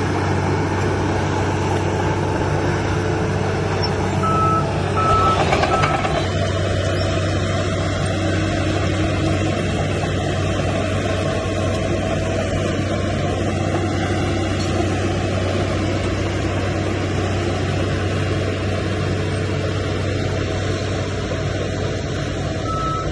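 Heavy earthmoving machine's diesel engine running steadily with a deep drone. About four seconds in, a reversing alarm gives three short beeps, then a louder rush of noise follows. The beeping starts again near the end.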